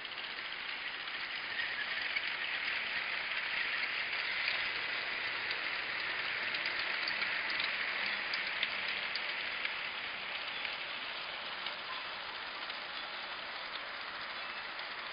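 Battery-powered New Bright G-scale toy train running along its track: a steady hissing whir of motor and wheels with small clicks, growing louder over the first several seconds and then slowly fading as it passes.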